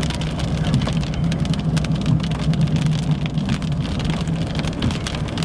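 Rain and debris striking the roof and windshield of a moving car, heard from inside the cabin as a dense stream of small sharp taps over the steady hum of the engine and tyres.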